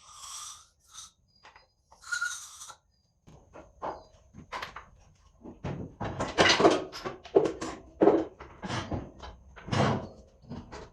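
Two short hisses, like bursts from an aerosol spray can, then a run of irregular knocks and clunks from tools being worked on the engine.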